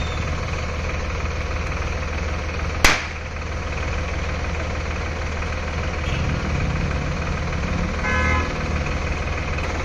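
Sonalika DI RX 42 tractor's diesel engine idling steadily. A single sharp crack comes about three seconds in, and a short horn toot near the end.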